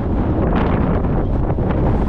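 Strong gale-force wind buffeting the microphone: a loud, deep rumble with gusty flares that come and go.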